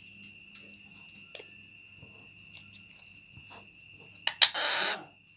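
Pet parrot: faint scattered clicks under a steady high whine, then a sharp click and a short harsh, rasping burst about four and a half seconds in.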